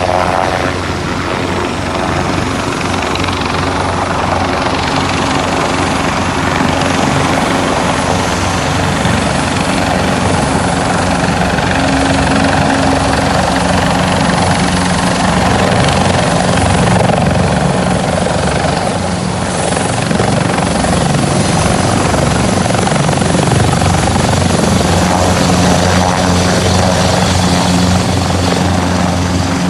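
Rescue helicopter flying close by: a steady, loud rotor thump and turbine whine with rushing rotor wash.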